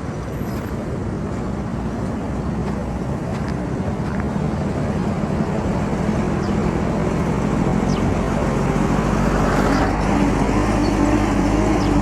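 Motor vehicle engine and road noise, a steady rumble that grows louder toward the end.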